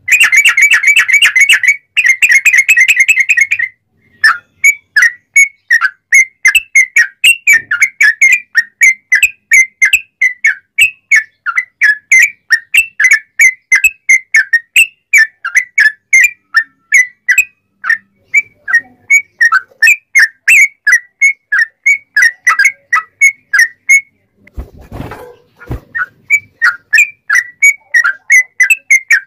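Yellow-vented bulbul (trucuk) singing loudly: a fast dense trill for the first few seconds, then a long run of sharp repeated whistled notes, about three a second. Near the end the song breaks off briefly for a low rustle before the notes start again.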